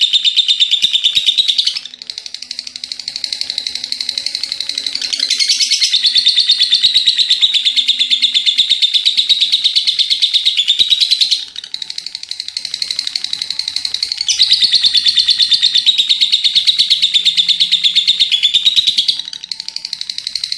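Lovebird in full song, giving its long ngekek chatter: a continuous, very rapid, high-pitched trill in long bouts of several seconds. It dips briefly in loudness three times.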